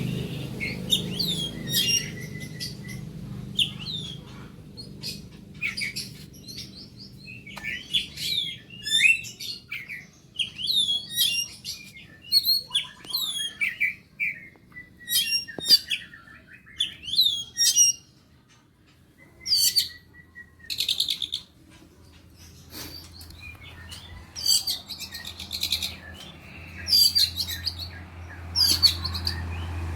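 Songbird singing in repeated bursts of rapid chirps and whistled sweeps, with short pauses between phrases and a longer break about two-thirds of the way through.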